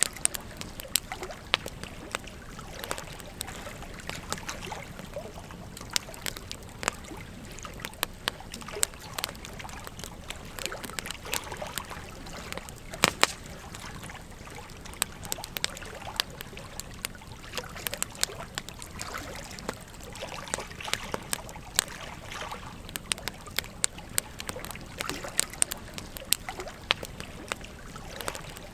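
Campfire crackling, with frequent irregular sharp pops and snaps, over the steady babble of a gentle stream.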